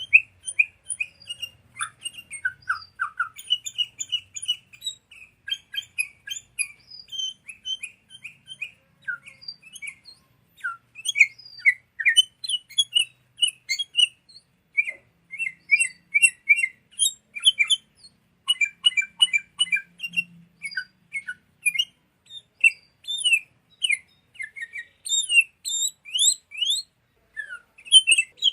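Sooty-headed bulbuls (kutilang) calling in a fast, continuous stream of short chirps and quick up-and-down whistled notes, with overlapping voices.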